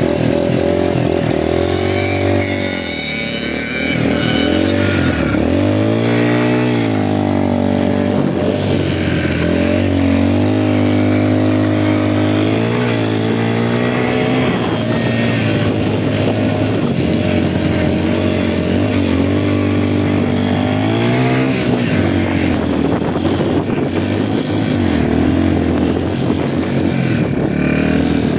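Motorcycle engine running under way, its pitch climbing and dropping several times as the revs change, and holding steadier for a stretch in the middle.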